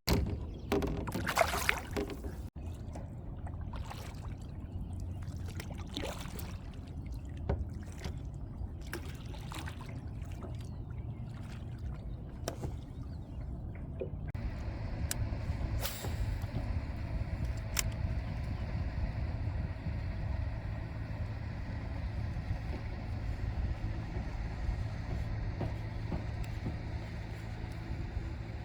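Water and on-board noise from a fishing kayak: scattered knocks and clicks of gear being handled over water trickling, then from about halfway a steady low drone with water noise and only an odd click.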